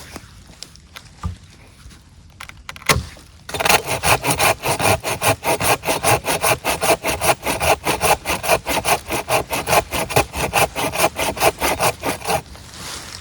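Hand saw cutting through wood in quick, even back-and-forth strokes, about five a second. The sawing starts about three and a half seconds in and stops shortly before the end. A few single knocks come before it.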